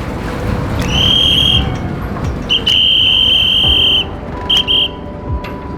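A high, steady whistle blown in signal blasts: one of about a second, a longer one of about a second and a half, then two short toots, over the continuous low rumble of a river boat's engine.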